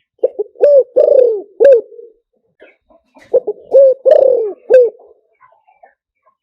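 Spotted dove cooing: two phrases of low coos, about three seconds apart, each with one longer drawn-out note among short ones. It is a decoy-dove call used to lure wild spotted doves.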